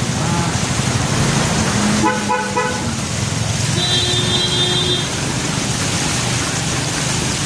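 Motorcycle engine running steadily while riding. A vehicle horn sounds in a few short toots about two seconds in, then a longer, steadier horn tone about four seconds in.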